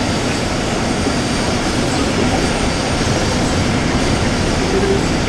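Steady running noise of a moving passenger train, an even rush with no distinct events.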